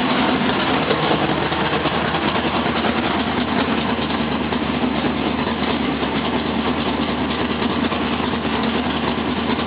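Engine of an S-10 Blazer drag-race truck idling steadily at its first start-up of the season, loud and even throughout.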